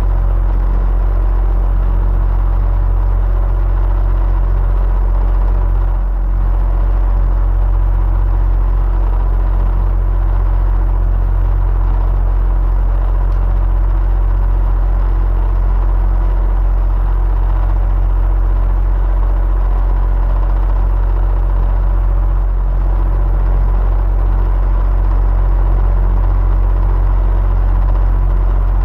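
Electric fan running steadily, a continuous deep hum and whir of moving air with faint steady tones above it.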